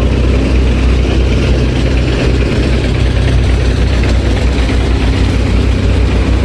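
Heavy engine of road-construction machinery running steadily with a low, even drone.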